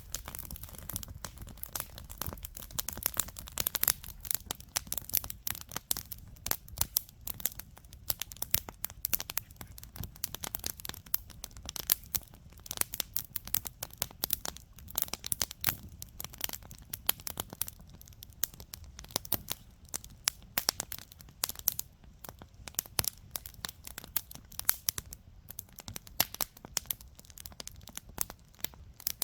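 Wood campfire crackling and popping, with dense, irregular sharp snaps.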